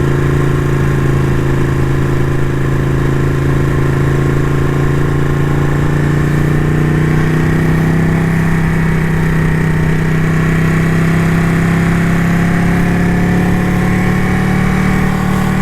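Ducati motorcycle engine running steadily under way, its pitch slowly rising through the second half as the revs climb.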